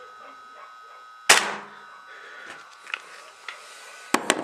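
Tokyo Marui FN Five-seveN gas blowback airsoft pistol firing one shot on green gas about a second in, a single sharp crack with a short tail as the slide blows back. A few lighter clicks of handling follow, with two sharp ones near the end.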